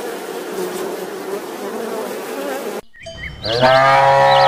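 A bumblebee buzzing at a flower for the first few seconds, then, after a short break, a cow mooing: one long, loud moo starting about three and a half seconds in, with a few bird chirps above it.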